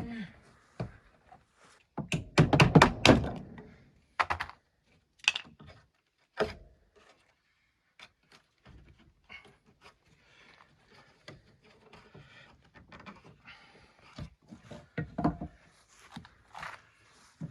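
Thuds and knocks from a wooden door being worked into its frame: a run of heavy thuds about two seconds in, then single knocks a second or so apart, then scattered light taps and clicks with a few louder knocks near the end.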